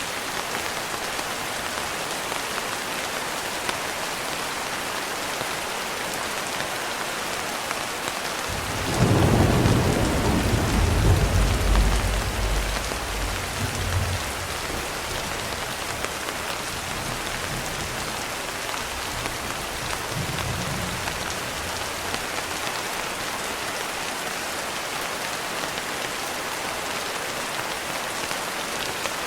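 Steady rain pattering on a window, with a clap of thunder rolling in about a third of the way through, rumbling low for several seconds before fading, and a fainter distant rumble a little later.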